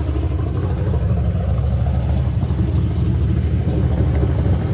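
Car engine and exhaust with a steady low rumble, growing slowly louder.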